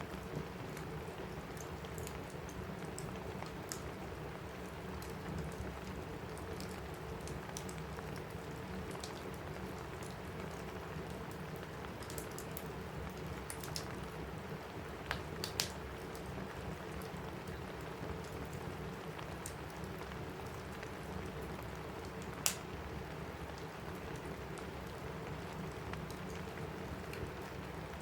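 Steady rain on a roof mixed with a crackling wood fire. The fire's scattered small clicks include a couple of sharper pops, one a little past halfway and one later on.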